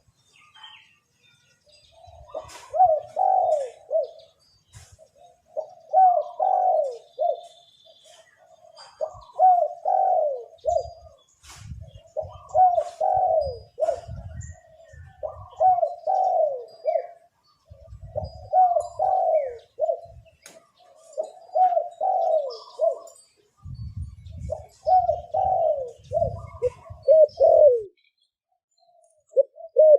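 Male spotted dove cooing: the same phrase of several low coo notes repeats about every three seconds. Low thuds sound under some of the phrases.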